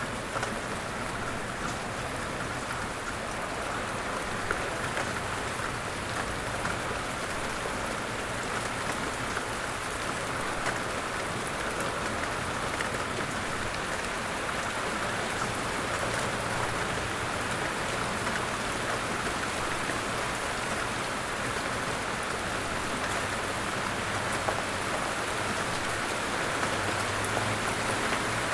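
Steady rain falling, an even, unbroken wash of drops.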